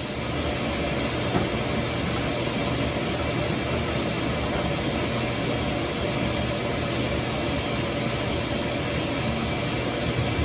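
Washing machine running steadily, a low hum under an even rush with no clear rhythm.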